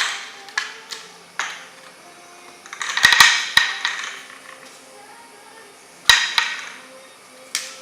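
Plastic clattering and hard knocks of a cat's mouse-trap toy, with a spinning mouse inside, being batted by a cat. There are single sharp knocks, a longer rattling cluster about three seconds in, and another sharp knock about six seconds in.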